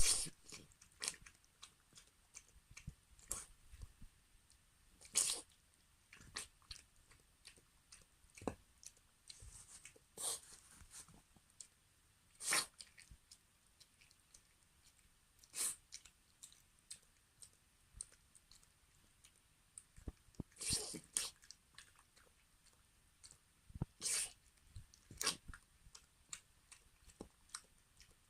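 A 16-year-old Maltese dog eating greedily: irregular short crunches and chewing clicks, with a louder crunch every few seconds.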